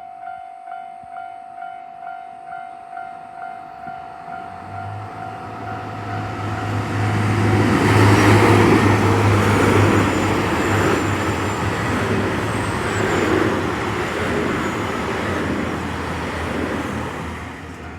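Japanese level-crossing warning bell ringing about twice a second. A KiHa 261 series diesel multiple unit then passes over the crossing, with a steady low engine note and wheel rumble that builds, is loudest about eight to ten seconds in, drowns out the bell, and then fades.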